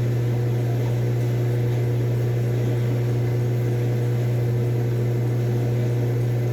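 Electric shop power tool running steadily with a low, even motor hum, used to cut an aluminum part.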